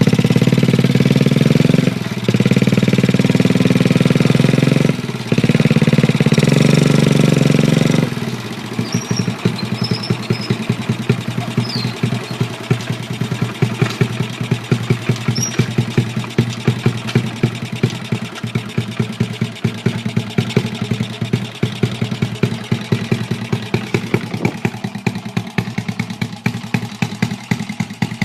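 Honda Chaly minibike's Wave 100 four-stroke single-cylinder engine held at raised revs for about eight seconds, dipping briefly twice. It then drops to a steady idle with even exhaust pulses.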